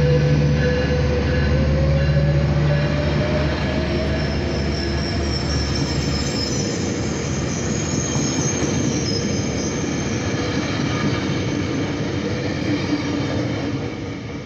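Metrolink commuter train moving past close by, with the noise of its rolling cars throughout. A diesel locomotive's steady engine hum fades out after about four to six seconds, and high wheel squeal sounds through the middle.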